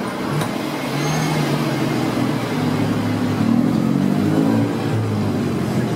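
Street traffic with a car's engine running close by, its pitch climbing slightly through the middle over a steady traffic hum.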